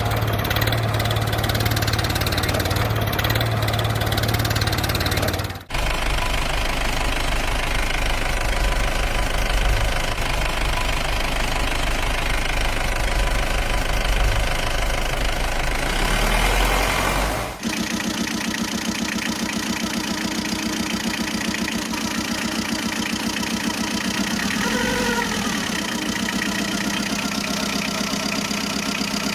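An engine running steadily, in three stretches split by sudden breaks about 6 and 18 seconds in, each at a different pitch.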